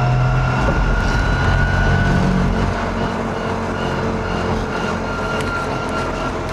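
Converted electric pickup truck driving in second gear: a thin whine from the electric motor and manual transmission rises slowly in pitch as it accelerates, then holds steady, over a continuous road and tyre rumble that eases a little about three seconds in.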